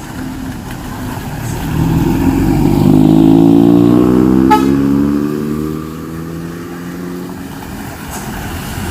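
A motor vehicle's engine passing close by, building up, then fading as its pitch slowly falls. A short horn toot sounds about four and a half seconds in.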